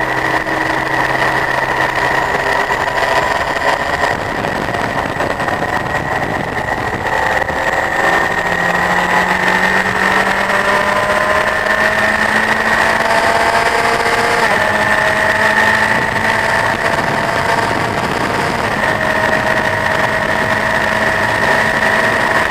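Honda CBF1000 inline-four motorcycle engine heard from on board while riding. The engine note changes about eight seconds in, then rises slowly and steadily as the bike accelerates, over a steady rush of wind.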